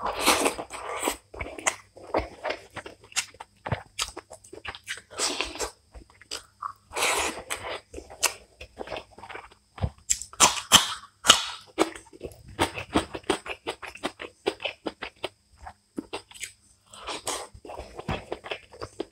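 Close-miked mouth sounds of a person eating rice and fish curry by hand: wet chewing, lip smacks and crunching bites in quick irregular clicks. The loudest crunching comes about halfway, as a raw green chili is bitten.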